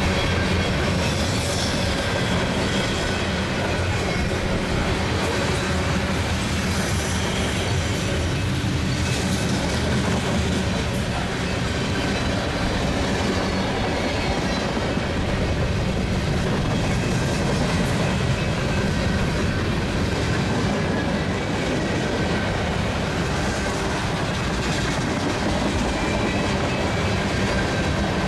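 Freight cars of a Union Pacific mixed freight rolling past close by: a steady noise of steel wheels on rail, with faint high wheel squeals now and then.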